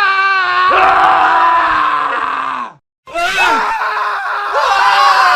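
Men screaming: one long, wavering scream that cuts off about three seconds in, then after a brief gap another scream with several voices overlapping.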